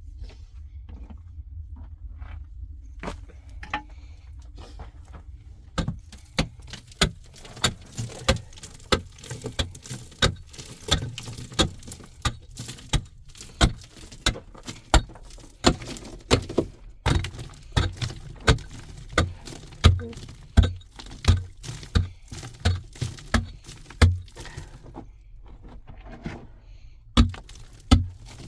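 A steady series of sharp knocks or strikes, about one to two a second, starting some six seconds in, pausing briefly and resuming near the end.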